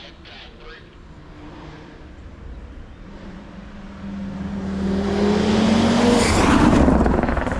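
Race car engine under hard acceleration, approaching from a distance. It grows louder with a slowly rising engine note, passes close about three-quarters of the way through, and its pitch drops as it goes by.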